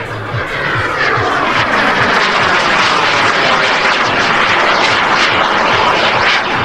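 Turbine-powered RC model jet flying past: a loud, hissing jet roar that swells about a second in and then holds, its tone sweeping as the plane passes.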